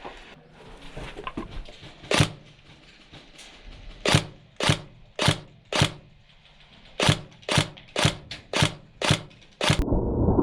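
An airsoft gun fired in single shots: one, then two strings of sharp cracks about two a second, eleven shots in all. Near the end the sound changes abruptly to a muffled low rumble.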